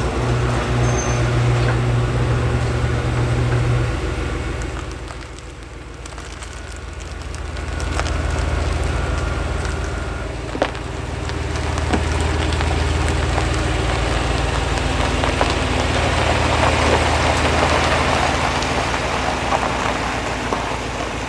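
SUV engine running: a steady low hum at first, dropping off about four seconds in, then building again as the vehicle backs out and pulls away. A few sharp clicks are heard along the way.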